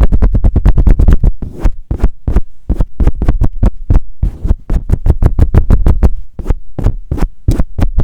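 Fast, aggressive hand handling of a Blue Yeti microphone, close on the mic: a rapid run of deep, boomy strokes and thumps, several to about ten a second, with a few short breaks.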